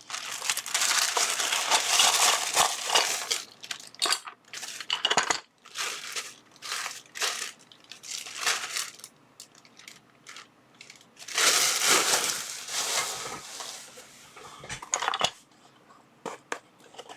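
Plastic packaging crinkling and rustling as a parcel is unwrapped, in two loud stretches, at the start and again past the middle, with scattered small clicks and knocks in between.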